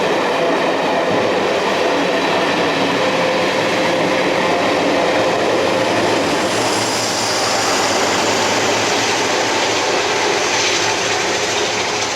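The Flying Scotsman's steam-hauled train rolling slowly past along the line, a steady noise of wheels on the rails with clicking over the joints and some squealing, starting to die away near the end.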